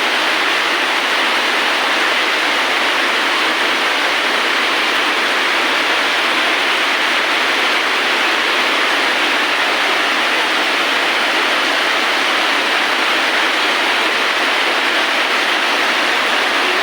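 Rain falling steadily: an even, unbroken hiss without separate drops or thunder.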